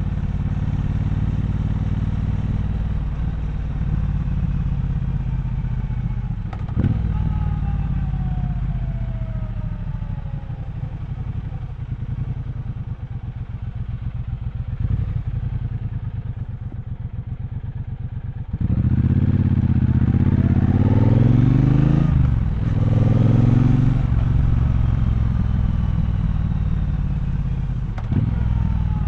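Triumph Bonneville Bobber's 1200 cc parallel-twin engine running at low revs in traffic, then opening up about two-thirds in: two rising revs under acceleration with a brief dip between them, before settling back. A few short sharp knocks along the way.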